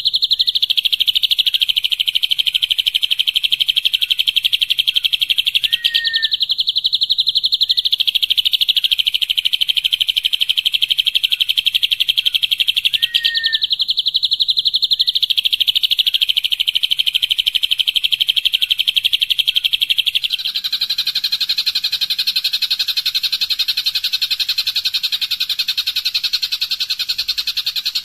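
Songbird singing a rapid, continuous high-pitched trill, the 'tembakan' (machine-gun) song used as a training recording for competition birds. A short separate chirp cuts in twice, and about twenty seconds in the trill changes to a fuller, broader one.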